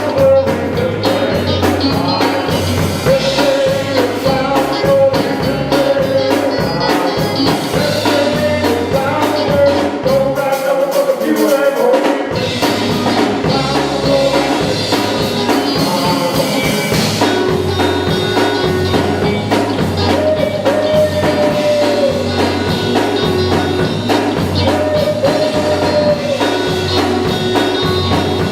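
Live gospel group singing with a band: lead and harmony voices over bass, drums and tambourine, the bass and drums dropping out for a moment partway through.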